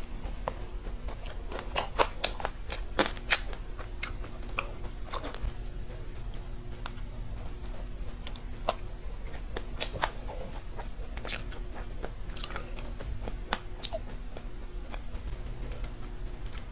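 Close-miked eating of macarons: chewing with the crisp shells crunching and crackling sharply, bunched between about two and five seconds in and again from about ten seconds in.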